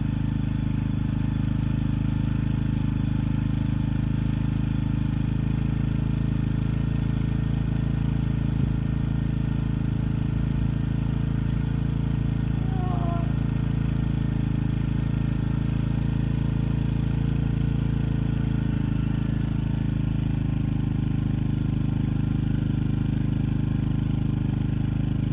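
Yamaha TT-R125LE dirt bike's single-cylinder four-stroke engine idling steadily on choke, warming up just after a cold kickstart.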